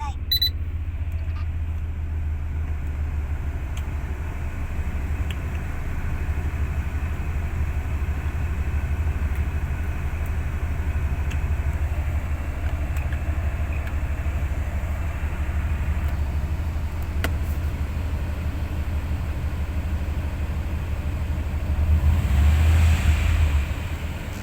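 Subaru Legacy BH5 twin-turbo flat-four engine running steadily with a deep, low note. It grows louder for a second or two near the end.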